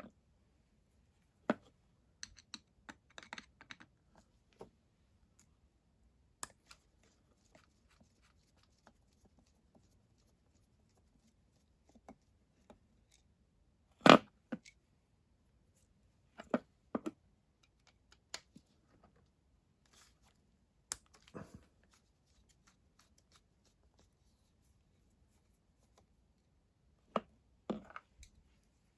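Scattered clicks, taps and light scrapes of small carburettor parts being handled, with one louder knock about fourteen seconds in.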